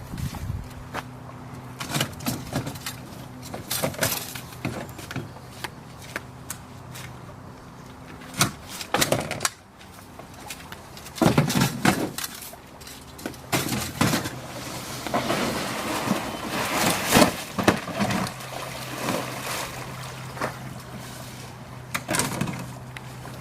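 Irregular knocks, clacks and scraping from handling the parts of a Porta-Bote folding boat as it is assembled, with a steady low hum underneath.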